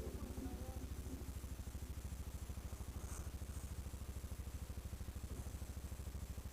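ATV engine idling steadily, a low even pulsing rumble with no revving.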